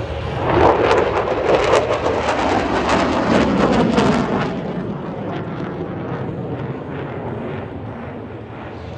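F-16 fighter jet flying past: the jet noise swells quickly, crackles at its loudest for about four seconds, then fades away.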